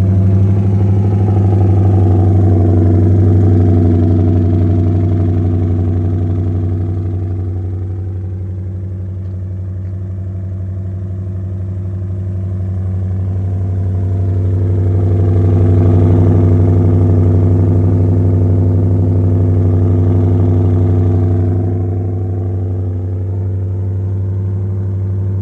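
Ford Raptor R's supercharged 5.2-litre V8 fast-idling just after a cold start, heard through an aftermarket MagnaFlow exhaust. The idle eases down around eight seconds in, swells up again around sixteen seconds, and settles a little lower a few seconds before the end.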